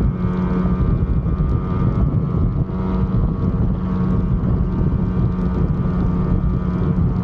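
Yamaha RD250 two-stroke parallel-twin engine running at a steady speed on the road, now on 140 main jets, with wind noise on the microphone.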